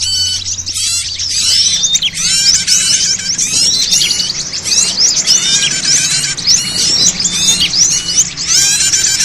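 Bird-lure recording of many small songbirds calling at once: a dense, unbroken chatter of high chirps and quick twittering trills. Underneath runs a faint steady low hum.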